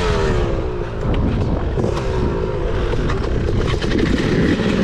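Two-stroke dirt bike engine revving, its pitch falling off twice, over a heavy low rumble.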